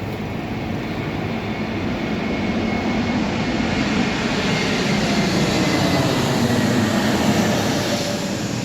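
Jet airliner engines running with a steady rushing noise and a faint high whine, slowly growing louder.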